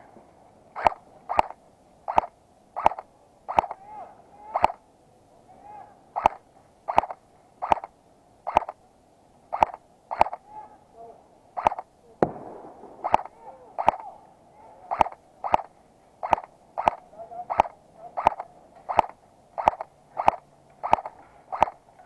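Airsoft gun firing single shots, about thirty sharp cracks at an uneven pace of one or two a second.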